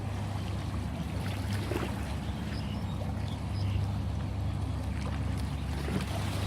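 Sea waves washing steadily, a constant rushing wash with a deep low rumble and small scattered splashes.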